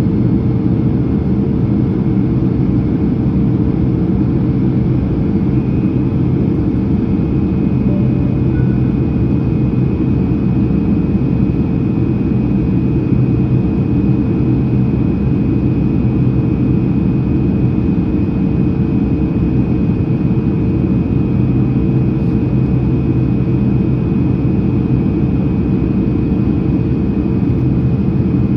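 Steady cabin noise inside a Boeing 767-300ER jetliner in descent: a continuous engine and airflow rumble with a steady hum and a faint high whine above it.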